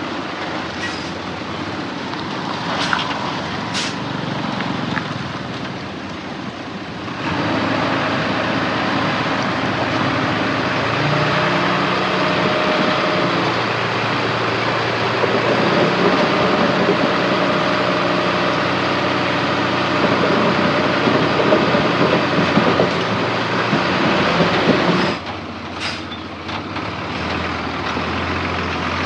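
Heavy diesel earthmoving machinery running. Engine noise rises sharply about seven seconds in and stays loud with shifting pitch, as under load, then falls back near the end. A few short, sharp high-pitched sounds come early and again after the drop.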